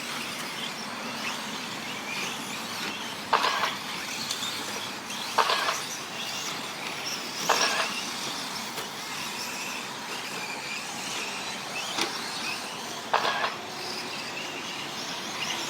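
Electric 1/10-scale 4wd RC short course trucks racing around the track: a steady wash of motor and tyre noise, broken by five short louder bursts as trucks pass close or accelerate.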